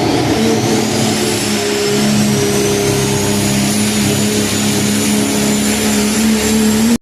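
Diesel pro stock 4x4 Dodge truck pulling a sled under full load, its engine held at high, steady revs with a high turbo whistle that climbs in pitch over the first couple of seconds and then holds. The sound cuts off abruptly at the end.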